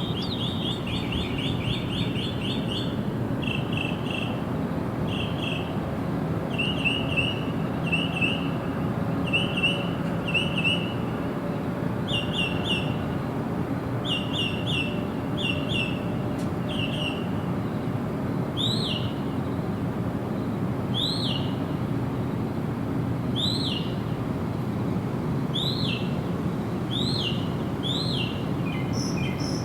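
Birds calling: short groups of quick chirps repeat about once a second, and past the middle they give way to single arched calls every two to three seconds. A steady background noise runs under them.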